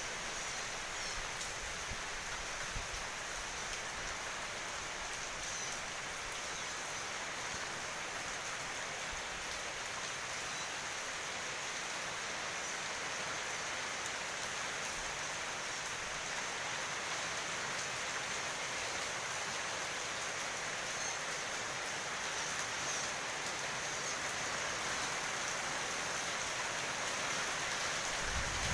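Heavy rain falling steadily, an even hiss that grows a little louder near the end.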